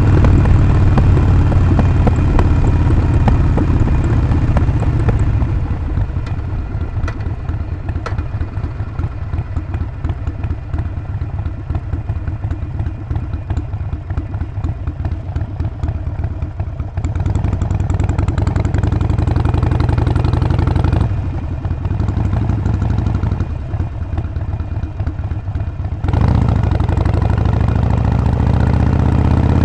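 Harley-Davidson Sportster Forty-Eight's air-cooled V-twin on the move, its exhaust loud at first, then easing back about five seconds in. The engine picks up again partway through, drops off once more, and near the end pulls hard with a rising pitch as the bike accelerates.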